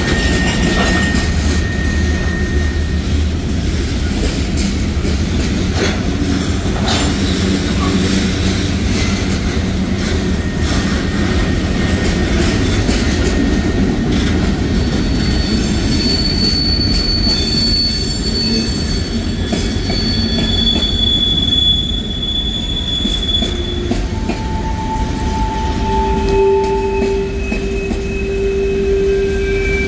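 Freight cars of a mixed manifest train, covered hoppers and tank cars, rolling past: a steady rumble of steel wheels on the rails with scattered clicks. Thin, high squeals from the wheels at several different pitches come and go, the strongest a lower-pitched one near the end.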